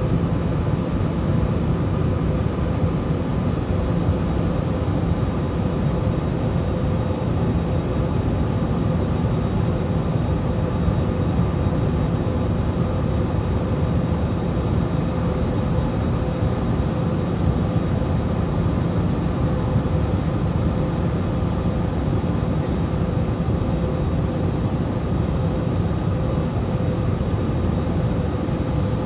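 Passenger-cabin noise inside an airliner: a loud, constant low drone of engines and rushing air, with a faint steady hum running through it.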